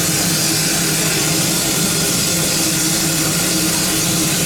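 A stationary locomotive giving a steady hiss over a constant low hum, unchanging throughout, with no chuffing or rhythm.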